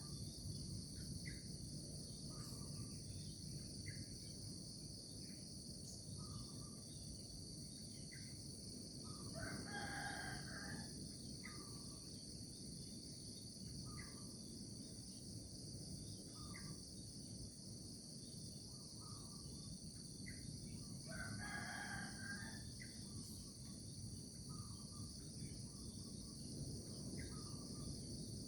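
A rooster crowing three times, roughly ten seconds apart, over a steady high chorus of insects, with short chirping calls in between.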